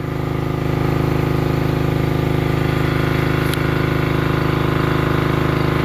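Portable generator engine running steadily, growing a little louder over the first second, with one short faint tick about three and a half seconds in.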